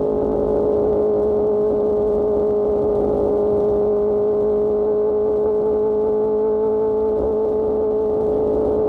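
Superbike engine through an Austin Racing GP1R exhaust, held at a steady pitch as the bike cruises at constant speed.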